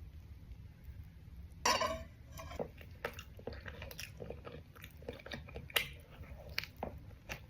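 A person biting into a cheese and Vegemite roll a little under two seconds in, then chewing it, with many small mouth clicks.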